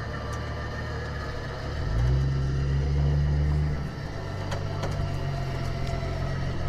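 A vehicle engine running steadily, picking up and getting louder for a couple of seconds midway, then settling back, with a few faint clicks.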